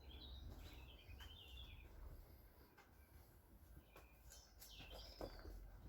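Near silence with faint bird chirps in the background, a few short chirps early and a sliding call near the end, and a couple of light clicks.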